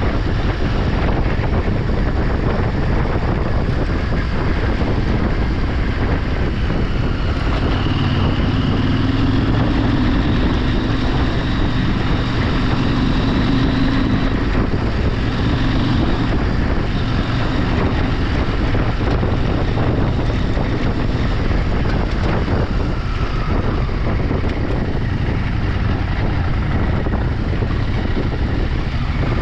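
Vehicle engine running steadily on the move, with wind buffeting the microphone.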